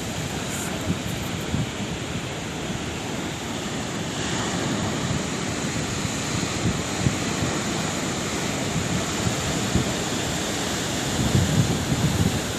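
Sea waves breaking and washing ashore in a steady rush of surf, swelling a little near the end.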